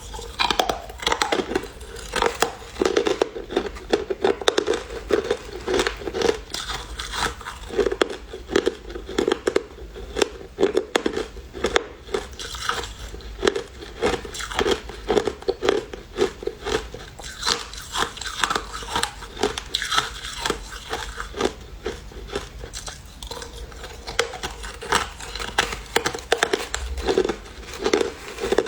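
A person chewing crushed ice: an irregular run of crisp crunches, two or three a second, without a break.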